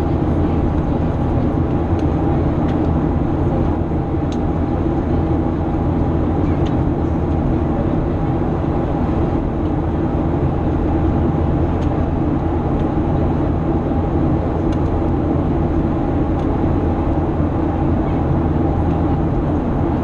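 Steady drone of a Boeing 737-800 in flight, heard from inside the cabin: the CFM56 engines and airflow make an even roar with several constant hums beneath it.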